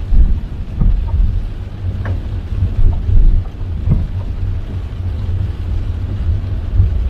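A car driving in heavy rain: a steady low road rumble under the hiss of rain, with scattered sharp taps of heavy drops striking the car.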